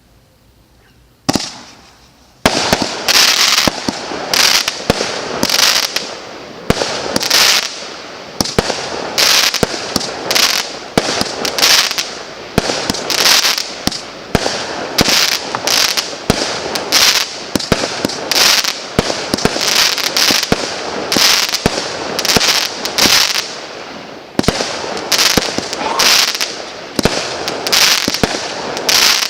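Multi-shot firework battery (cake) firing: a single shot about a second in, then a steady rapid run of launches and bursts, a little more than one a second, with crackling between them.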